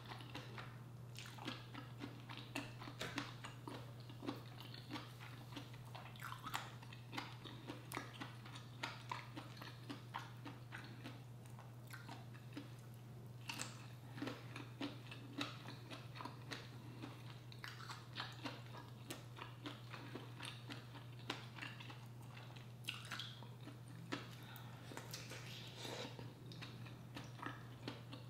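A person chewing seafood-boil food, close-miked: frequent wet mouth clicks and smacks, over a steady low hum.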